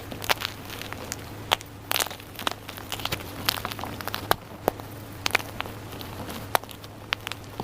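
Dyed gym chalk crunching and crumbling, with irregular sharp crackles, a few louder than the rest, over a faint steady low hum.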